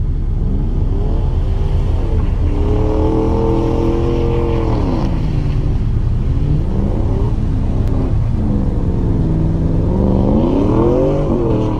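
A vehicle engine revving over a steady low rumble. Its pitch climbs over the first few seconds and holds, drops back about five seconds in, then climbs again and eases off near the end.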